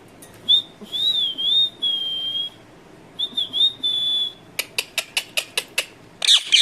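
Indian ringneck parrot whistling: a high wavering whistle, then a second shorter one, followed near the end by a quick run of short sharp chirps.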